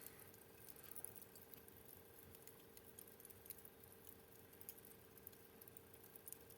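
Wood fire crackling faintly, with scattered small irregular pops and snaps.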